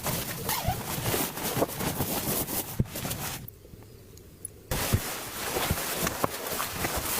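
Rain pattering: a steady hiss dotted with many irregular drip clicks. The hiss cuts out abruptly for about a second midway, leaving a low rumble, then returns.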